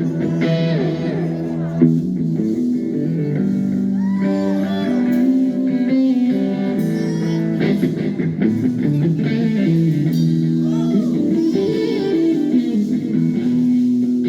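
Live rock music led by electric guitar, with bending lead notes over held chords.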